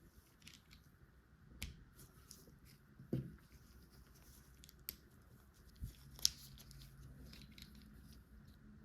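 Plastic LEGO pieces being handled and pressed together: scattered small clicks and light rustles, the sharpest click a little over six seconds in, with a duller knock about three seconds in.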